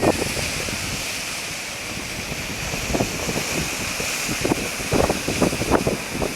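Strong bora wind blowing, with gusts buffeting the microphone in irregular low thumps over a steady hiss of wind and surf.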